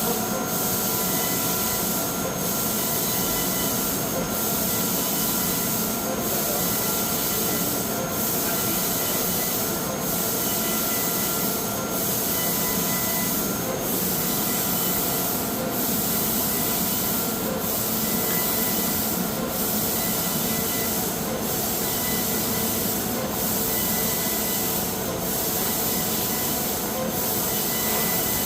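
CNC laser cutting machine cutting steel sheet: a steady high hiss that breaks off briefly about every two seconds, over a machine hum with several constant tones.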